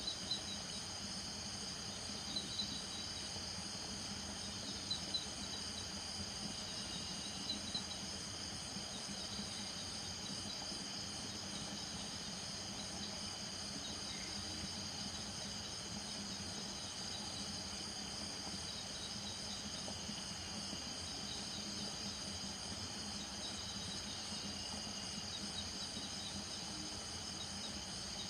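Night chorus of crickets, a steady, dense high-pitched trilling with faint pulsed chirps woven through it. A faint low steady hum sits underneath, and a few brief louder calls stand out in the first eight seconds.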